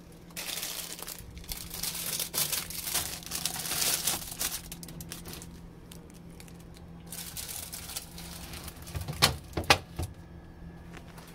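Plastic packaging crinkling as it is handled, in a long stretch and again about seven seconds in, followed by two sharp knocks about nine seconds in.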